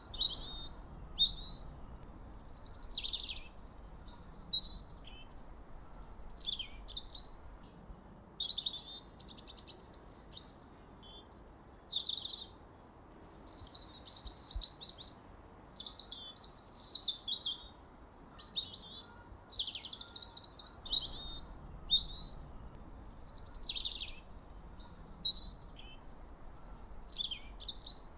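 Birds singing: a continuous run of short, high, varied chirps and whistled phrases, one after another with brief gaps.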